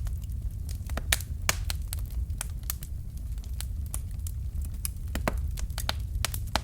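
Fire crackling in a fireplace: irregular sharp pops and snaps, several a second, over a steady low rumble. A couple of louder snaps come about a second in.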